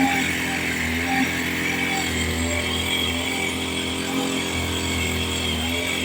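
Small petrol engine of a motorized sprayer running steadily, its pitch wavering slightly.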